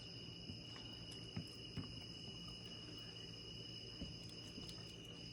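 Faint steady insect trill, a single high tone held without a break, with a few soft ticks.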